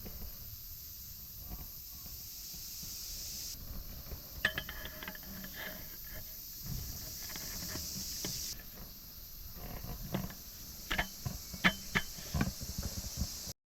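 Aluminium alloy parts of a folding camp table clinking and knocking as it is assembled: scattered light metallic clicks, some with a brief ring, in a cluster about four seconds in and a quicker run near the end, over a steady high hiss.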